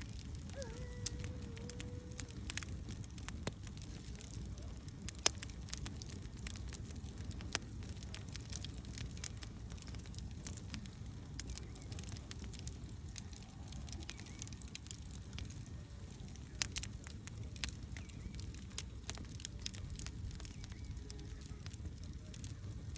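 Wood campfire burning: irregular sharp crackles and pops over a steady low rumble of flame.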